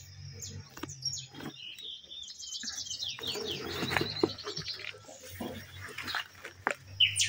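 Birds chirping and calling, with a quick run of rapid high notes a little over two seconds in and more sharp chirps near the end, over a steady high background hiss.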